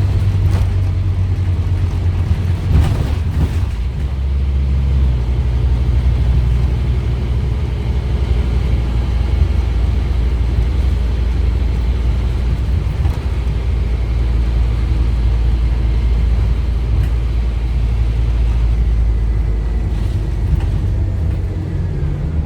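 Scania OmniCity double-decker bus under way, its Scania DC9 five-cylinder diesel and ZF Ecomat automatic gearbox running with a steady low rumble over road noise. A single knock comes about three seconds in, and the engine note changes slightly around five seconds.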